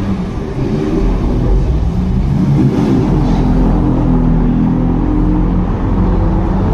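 Maserati MC20 engine running at low speed as the car rolls up a narrow street, with a short rising rev about two and a half seconds in, then an even low drone. The sound echoes off the buildings on either side.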